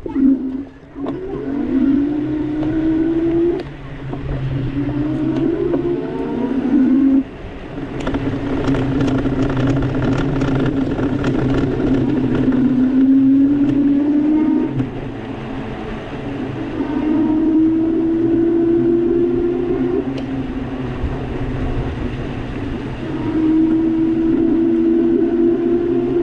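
EP-2 Pro e-bike's electric motor whining, rising in pitch as the bike gathers speed, five times over a steady rushing noise. A run of small clicks comes about a third of the way in.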